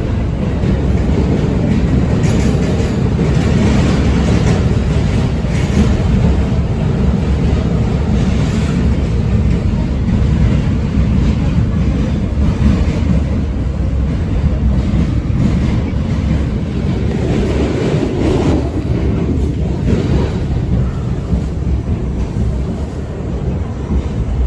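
R68 subway train running at speed through an underground tunnel: a steady, loud rumble of steel wheels on rail, with scattered clicks and knocks over rail joints and switches.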